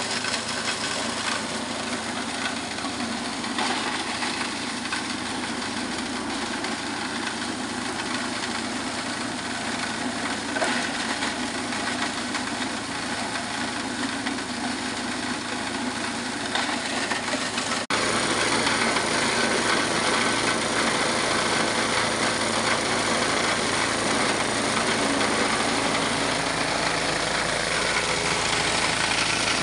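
Small plastic shredder machine running steadily. About two-thirds of the way through the sound cuts suddenly and comes back slightly louder.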